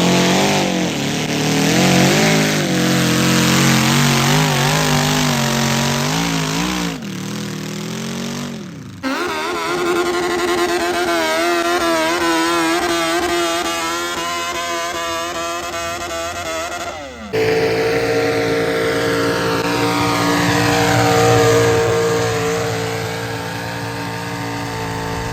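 Pulling-tractor engines running hard at high revs under load, in three separate cuts that change abruptly about 9 and 17 seconds in; the engine note wavers up and down in pitch.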